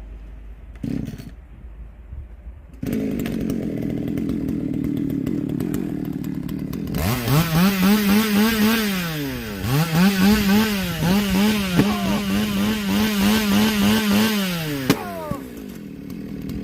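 Small two-stroke chainsaw engine catches about three seconds in and idles. It is then revved to full throttle several times, each rev held for a second or more before dropping back, and settles to idle near the end.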